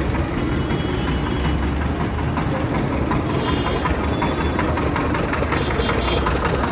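Heavy diesel engine idling with a steady low rumble, as of a locomotive standing at the platform.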